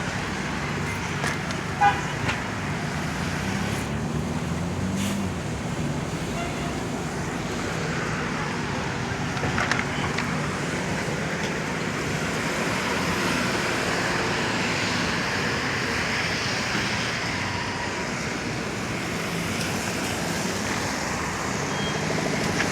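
City street traffic on wet pavement: a steady hiss of cars and tyres passing, with a short, sharp, loud sound about two seconds in.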